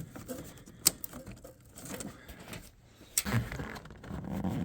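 Handling noise of a rubber vacuum hose being pulled through the engine bay. There is a sharp click about a second in, then rubbing and scraping from about three seconds in.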